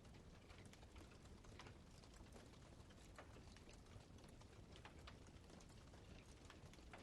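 Campfire crackling faintly: burning wood giving off irregular small pops and snaps over a low rumble.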